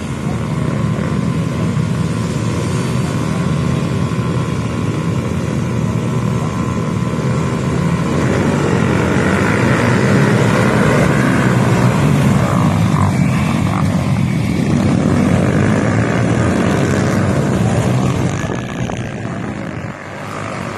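Motocross dirt bike engines running at high revs. The sound grows louder about a third of the way in, holds for several seconds, and fades near the end.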